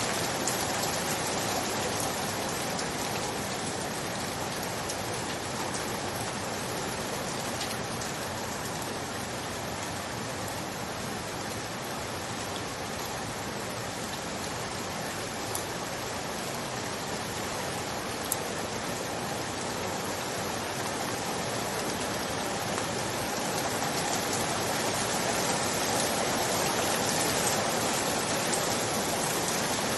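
Steady rain falling on surfaces, an even patter that swells a little near the end.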